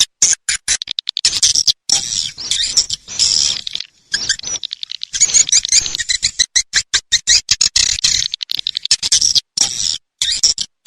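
Swiftlet calls from a swiftlet-house lure recording: rapid trains of clicks and buzzy, twittering chirps that run almost without a break, with a few short pauses.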